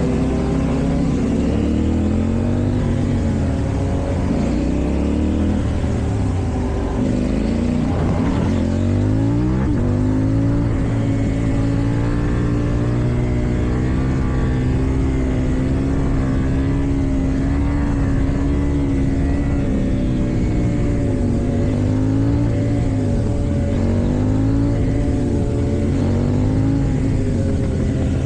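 KTM Duke 790's parallel-twin engine through an Akrapovic exhaust, under way. Its pitch climbs over the first several seconds as the bike accelerates, then holds steady at a cruise. Near the end the revs dip and rise a few times.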